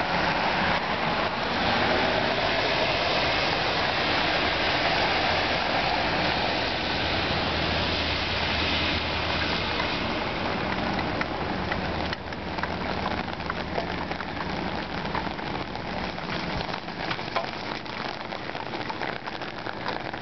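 Rain falling with a steady wash of water, and cars driving through the flooded street, their tyres swishing through the standing water and engines humming for the first dozen seconds. After about 12 s the traffic noise drops and scattered raindrop ticks stand out.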